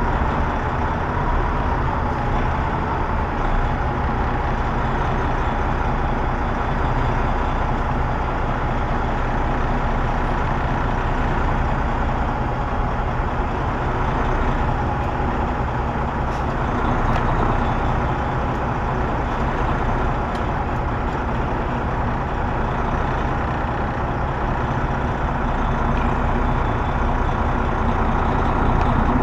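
Semi-truck diesel engine running steadily at low speed while the truck backs up.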